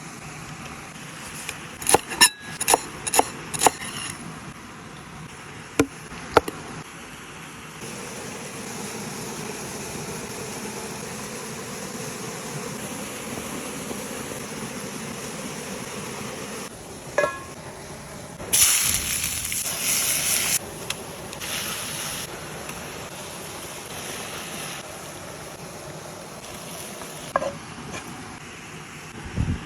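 Cooking sounds: a quick run of clinks and knocks from cookware, then a steady hiss with a louder burst of hiss about two-thirds through.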